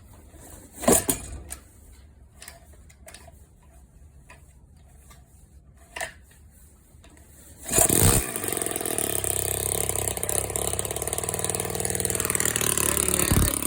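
Scattered clicks and knocks, then about eight seconds in a small engine catches on a cold start with a loud bang and keeps running steadily, pretty loud through its open exhaust manifold.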